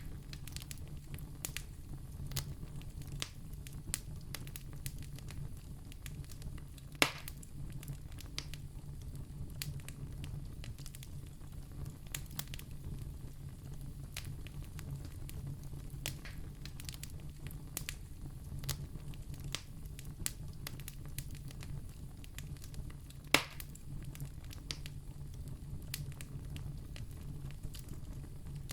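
Campfire burning with a steady low rumble and frequent small crackles, and two louder pops, one about seven seconds in and one near twenty-three seconds.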